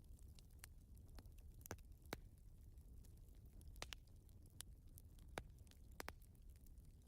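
Wood fire in a fireplace crackling faintly: scattered sharp pops and snaps at irregular intervals over a low steady rumble.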